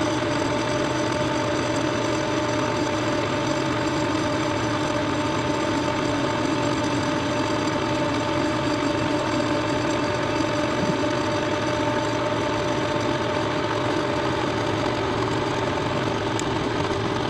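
Milling machine running steadily, its end mill taking a facing pass across the front of an engine frame: a constant motor-and-spindle hum with a few steady tones and no change in speed.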